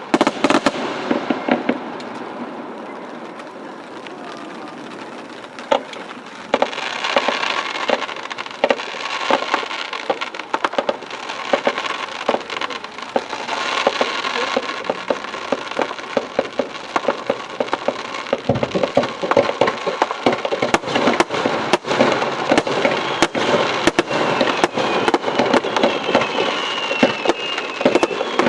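Aerial firework shells bursting, with long stretches of dense crackling; sharp bangs come thick and fast in the second half, and whistles that fall slightly in pitch repeat near the end.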